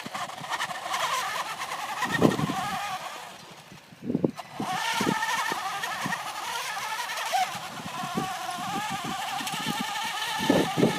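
Electric drive motor and gearbox of a 1/14-scale RC truck whining under a heavy load of over 50 pounds, the pitch wavering. The whine runs for about three seconds, drops out briefly about four seconds in, then picks up again. Scattered short knocks sound underneath.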